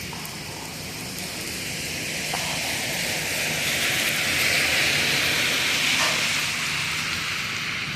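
A vehicle passing in the rain: a hissing rush that swells over several seconds, peaks about halfway through, then fades, over steady rainfall.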